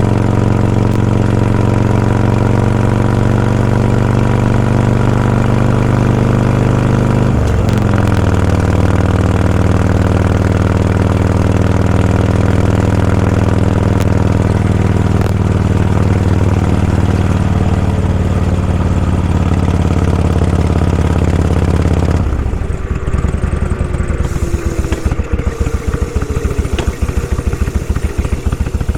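Motorcycle engines idling in slow traffic, a steady running note that shifts briefly about 8 seconds in. About 22 seconds in the steady note stops and a rapid, uneven pulsing engine sound takes over.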